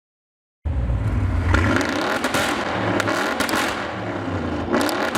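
Mercedes-AMG twin-turbo V8 accelerating hard, starting abruptly after a moment of silence. Its note rises and drops repeatedly, with several sharp cracks along the way.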